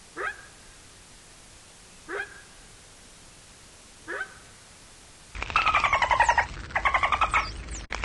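Three short calls rising quickly in pitch, about two seconds apart, from a wildebeest (gnu). A little past five seconds in, the sound cuts to a bottlenose dolphin: loud, fast pulsed squawking calls in two phrases, with short high whistles over them.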